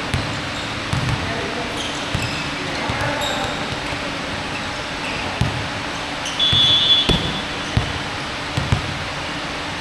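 Basketball bouncing on a court floor in irregular thuds during play, with a brief high squeak about two-thirds of the way through.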